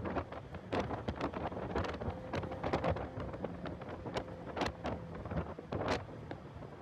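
Heavy wind buffeting on the microphone of a car being driven at speed on a race track: a rough rumble broken by irregular, sharp gusty thumps, with the car's faint running drone underneath.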